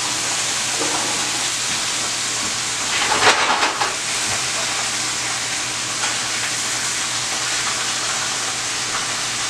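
Chicken, mushrooms and shallots sizzling steadily in olive oil in a cast iron skillet on medium-high heat, with a brief louder burst of stirring in the pan about three seconds in.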